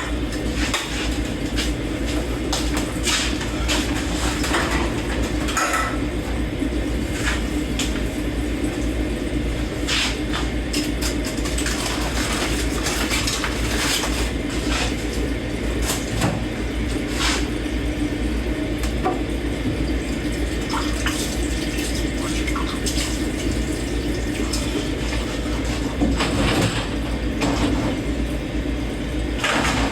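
Dishes being hand-washed in a kitchen sink: tap water running steadily while dishes and cutlery clink and knock against each other at irregular moments.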